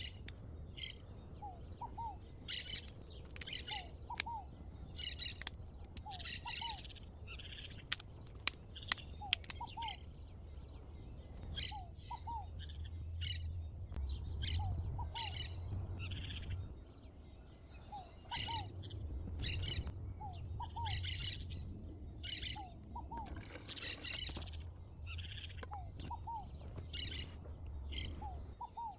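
Several wild birds calling. One repeats a short, lower two-note call every two or three seconds over steady higher chirping. A few sharp clicks come about a third of the way in.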